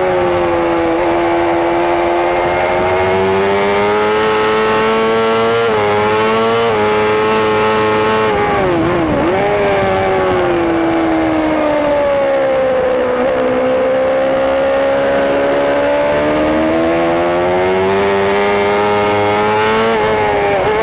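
Racing superbike engine heard from on board at high revs. Its pitch keeps sweeping down and up with throttle and gear changes, with small sudden jumps in pitch and a deep wavering dip about nine seconds in.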